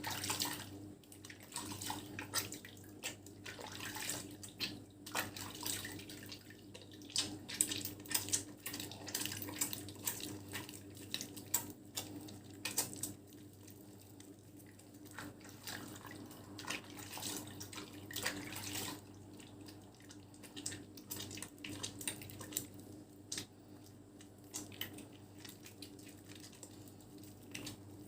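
Wet bar of lavender soap being lathered with water, foam squishing and crackling in quick irregular bursts.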